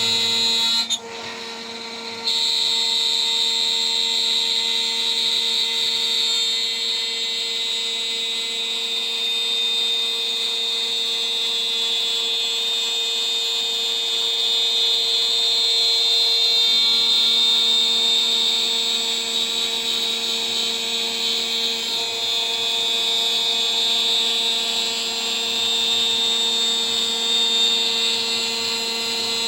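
CNC router spindle running at about 14,000 rpm with a 3 mm three-flute end mill milling a part: a steady high-pitched whine with the cutting noise over it, briefly dropping in level about a second in.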